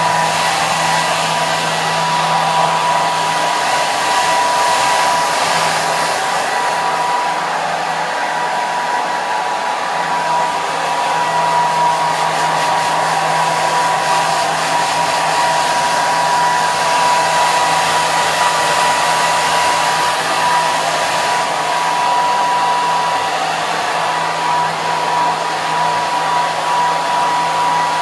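Hair dryer running continuously: a steady rush of air with a constant high whine from its motor and fan.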